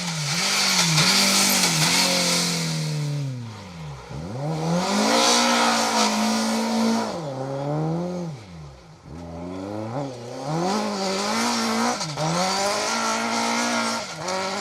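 Rally car engines at high revs, flat out on a special stage: the pitch climbs and drops with gear changes and lifts off the throttle, in three loud passes about four to five seconds apart, each with a hiss of tyres on the surface.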